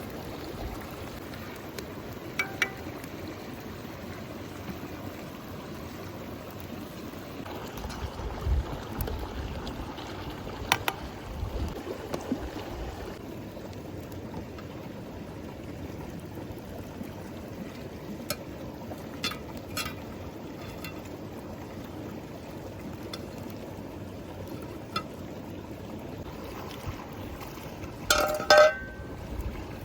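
Cooking over an open fire: a steady hiss with scattered sharp clicks and clinks, and a louder ringing clatter near the end.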